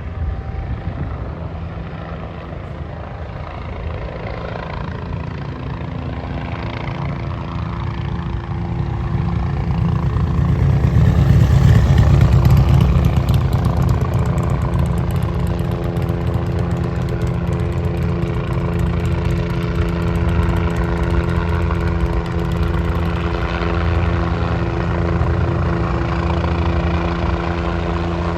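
Medical helicopter's rotor and turbine engine running, growing louder to a peak about twelve seconds in and then holding steady, with a high whine over the rumble for a while.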